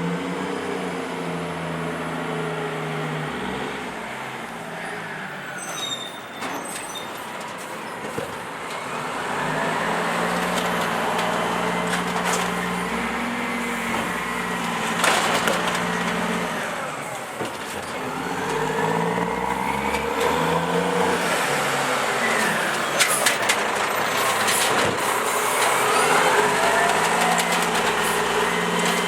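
Automated side-loader garbage truck working its carts. The engine revs up and settles back in repeated cycles, under a hydraulic whine that rises and falls three times. A few sharp bangs cut across it.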